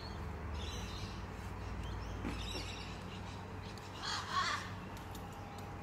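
A bird's harsh, crow-like caw about four seconds in, with fainter calls before it, over a steady low background hum.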